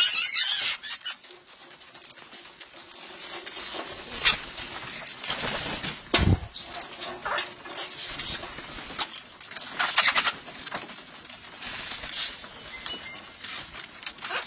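Parrots flapping their wings and shuffling about, in scattered short rustling bursts, with one dull thump about six seconds in.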